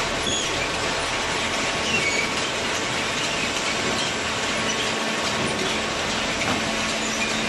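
Paper baler machine running: a steady mechanical din with short high metal squeaks and light clatter scattered through it.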